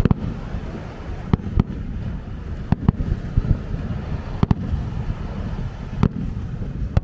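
Aerial fireworks bursting: a string of sharp bangs, some in quick pairs, over a steady low rumble.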